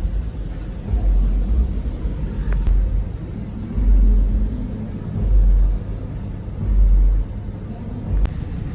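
Low rumble of a moving vehicle, with gusts of wind buffeting the microphone in swells of about a second, several times over. A sharp click comes near the end.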